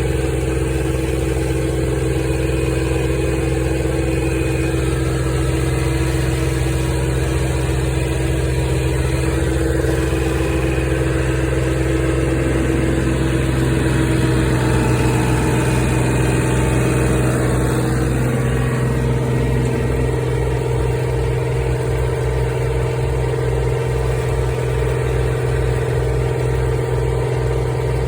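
Tractor engines running steadily with Toro aerators working. About two-thirds of the way through, a low pulsing of two or three beats a second comes in.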